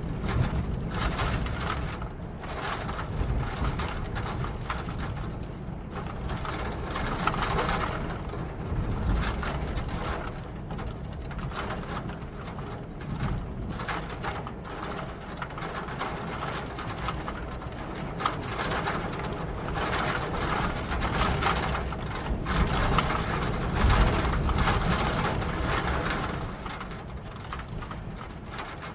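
Rain falling steadily: a dense crackling patter of drops over a low rumble, growing louder and softer in slow waves.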